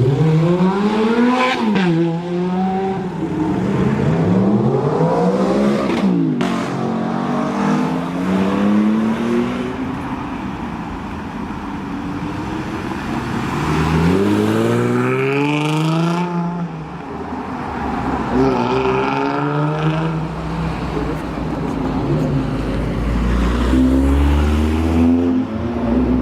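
Jaguar F-Type sports car engine revving hard several times, its note climbing steeply in pitch and dropping back each time, as in hard acceleration.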